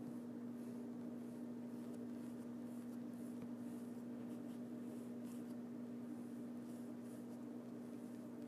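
Soft, irregular brushing and scratching of a paintbrush on a painted backdrop, over a steady low hum.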